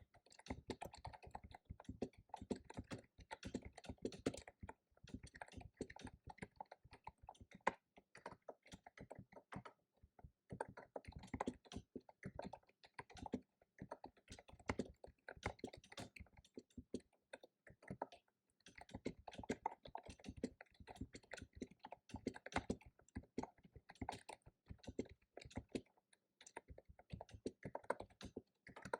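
Fast typing on a computer keyboard: keys clacking in quick runs, broken by a few brief pauses.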